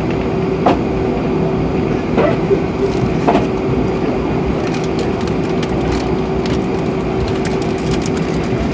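Airbus A320 cabin noise heard from a window seat while the jet taxis: a steady drone from its IAE V2500 engines and airflow with a steady hum under it, and a few knocks and creaks from cabin trim about a second in and again around two and three seconds in.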